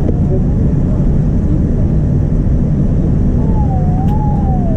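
Steady low rumble inside the cabin of a Boeing 787-9 Dreamliner with its engines running, with a faint wavering whine about three and a half seconds in.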